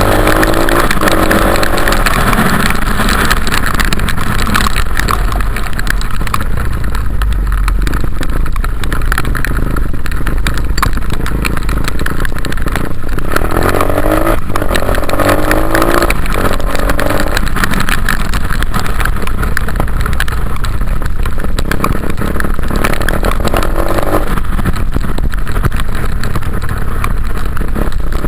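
Dirt bike engine revving as it is ridden, its pitch climbing in runs at the start, midway and near the end, over a steady low rumble.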